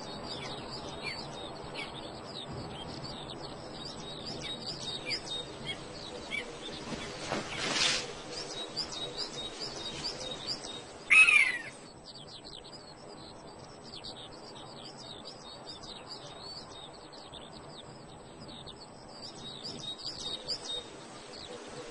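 Chorus of small birds singing, many short high chirps and trills. A brief rushing sound comes about eight seconds in, and one louder call sliding downward in pitch comes about eleven seconds in.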